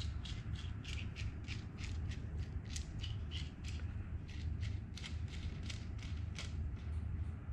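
Light, rapid metallic ticking, about three or four clicks a second and uneven in strength, from small steel parts of a machinist's jack being handled and fitted together, over a steady low hum.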